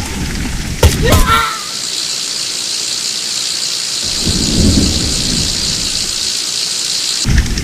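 Wind rumbling on the microphone of a moving bike rider, with two sharp knocks and a short squeal about a second in. A steady high hiss follows until just before the end, when the low rumble returns.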